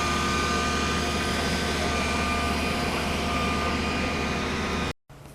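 Tree-removal machinery engine running steadily, a continuous mechanical noise with faint high whines over it; it cuts off abruptly near the end.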